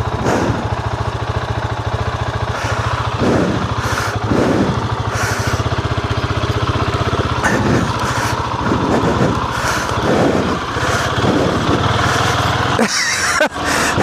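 Husqvarna 701's single-cylinder engine running steadily at low revs as the motorcycle is ridden, with a brief drop in level near the end.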